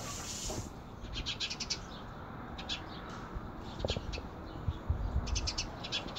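Small birds chirping: several quick runs of short, high chirps, over a faint low rumble.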